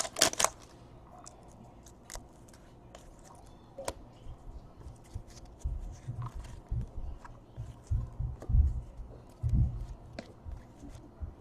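Soft handling noises of trading cards being flipped through: faint scattered clicks and ticks, with a run of dull low bumps in the second half.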